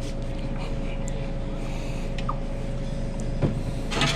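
Steady mechanical hum of running kitchen equipment, with a couple of light knocks and a short clatter near the end from work on the line.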